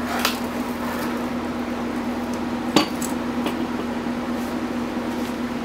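A few sharp metal clanks and knocks as motorcycle engine parts are handled and set down, the loudest about three seconds in, over a steady low hum.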